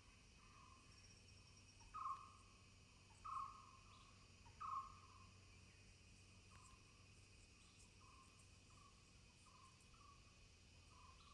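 Faint outdoor nature ambience: a short animal call repeated about once or twice a second at one steady pitch, with three louder calls a little over a second apart about two seconds in, and faint insect ticking above it.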